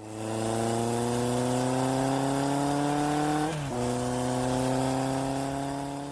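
A motor vehicle engine accelerating, its pitch climbing steadily. About three and a half seconds in there is a brief dip like a gear change, then it climbs again. It starts and stops abruptly, like an inserted intro sound effect.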